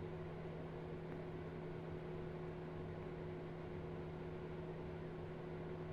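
Steady low hum with a faint hiss, from a ceiling fan running in the room; no ticking of the watch movement stands out.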